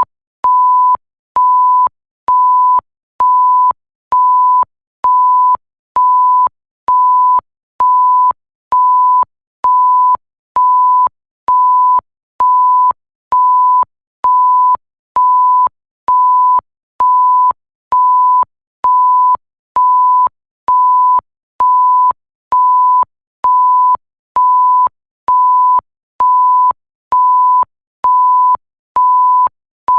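Electronic bleep: a single pure, steady tone of the censor-bleep kind, sounding for about half a second and stopping, over and over at an even pace of a little more than once a second. There is a faint click as each bleep starts and stops.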